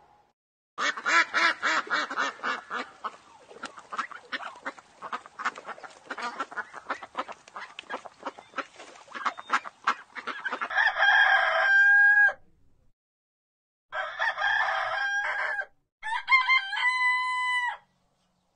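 Chickens clucking in a fast, busy chatter for about ten seconds, followed by a rooster crowing three times, each crow a long held call broken off by a short silence.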